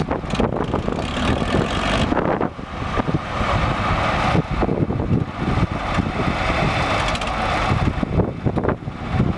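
Case IH 885 tractor's diesel engine running, with wind buffeting the microphone.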